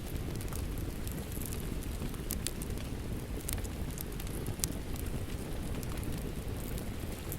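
Fireplace wood fire crackling with sharp, irregular pops and snaps, over a steady hiss of rain falling outside.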